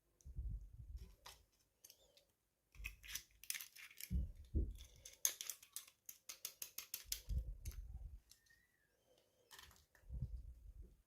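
Hands unboxing small toys: a run of quick clicks and rustling of packaging, densest in the middle, with several dull knocks against a surface.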